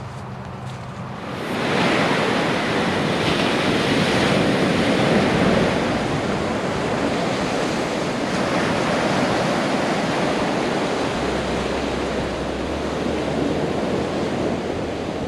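Steady rushing wash of noise that starts suddenly about a second and a half in and holds evenly to the end.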